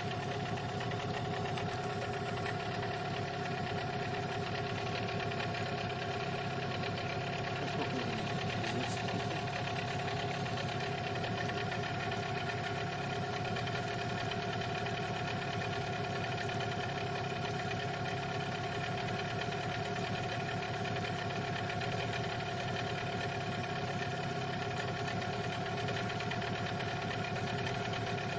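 Small outboard boat motor running steadily at a constant, moderate speed, being run in new during its break-in.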